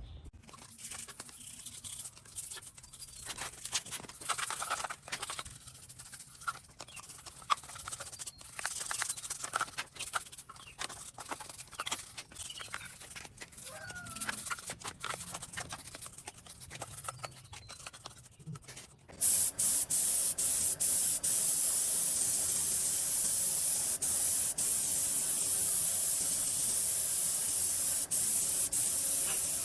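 Small clicks, taps and rubbing as metal parts are handled. About two-thirds of the way through, a compressed-air spray gun starts suddenly and keeps spraying with a steady loud hiss.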